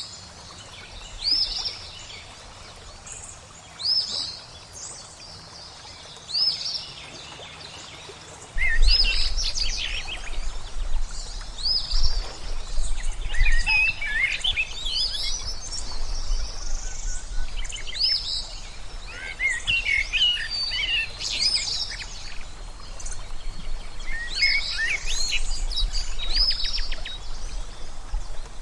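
Birdsong ambience: a short high call repeats about every two and a half seconds, then about nine seconds in a fuller chorus of chirps and trills joins over a low steady rumble.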